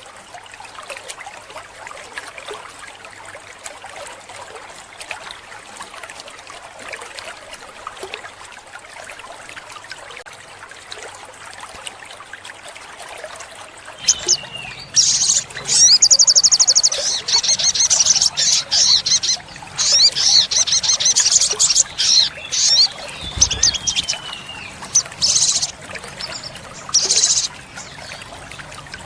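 Olive-backed sunbird singing: loud, rapid, high trills and chirps in bursts, starting about halfway through and stopping near the end. Underneath runs a steady trickling-water hiss, which is all there is in the first half.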